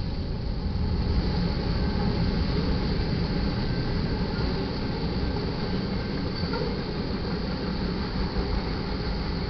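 Freight cars of a mixed manifest train rolling past: a steady rumble of steel wheels on the rails that does not let up.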